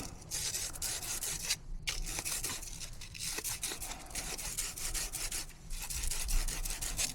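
Sandpaper rubbed back and forth in quick strokes on a furnace flame sensor rod, scouring off the dirt that gives it a low reading (0.9 against a wanted 2 to 2.5). There are brief pauses about two seconds in and near the end.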